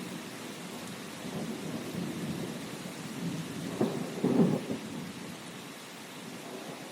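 Steady rain hissing, with low rolls of thunder rumbling through it, the loudest a little before halfway through, then easing off.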